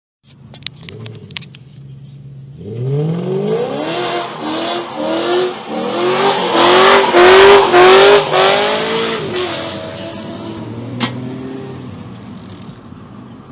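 Car engine revving hard in a series of quick rising surges, with a hiss of tyre noise. It is loudest about seven to eight seconds in, then fades away, with a sharp click near the end.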